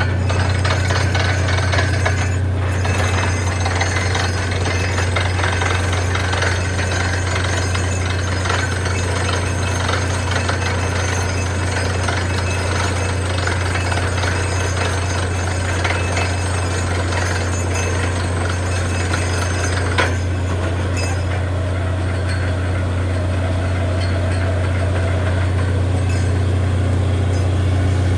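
Borewell drilling machine running: a steady low drone with a fast, dense rattling of hammer drilling over it, and one sharp knock about twenty seconds in.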